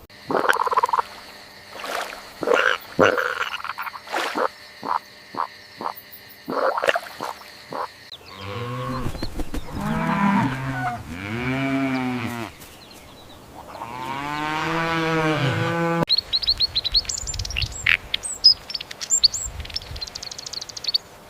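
A string of animal calls. First come irregular clicks and short croaking calls, then three long, low calls that rise and fall in pitch, then rapid high chirps over the last few seconds.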